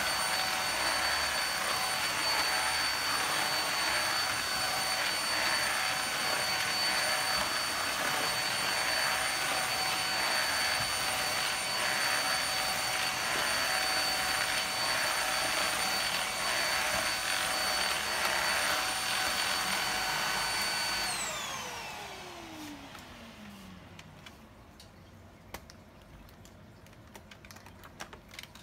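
Handheld UV vacuum cleaner's motor running with a steady high whine and rush of air, then switched off about three-quarters of the way through, its pitch falling as the motor spins down. A few light clicks follow near the end.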